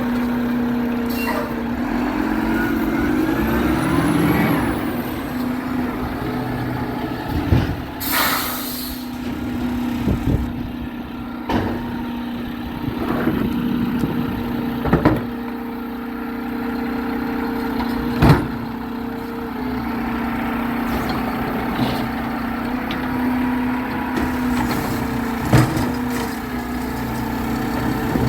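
Garbage truck running with a steady engine drone. About eight seconds in comes a loud burst of air-brake hiss, and a string of sharp clanks and bangs runs on and off.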